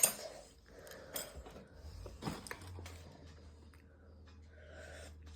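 A few light clicks of a spoon against a bowl during eating, three of them in the first couple of seconds, over a faint low hum.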